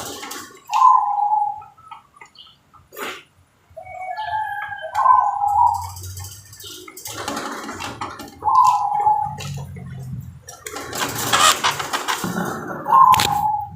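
Zebra dove (perkutut) cooing: four short phrases of low coos, one every three to four seconds. Rushes of noise come between the later phrases, the longest just before the last coo.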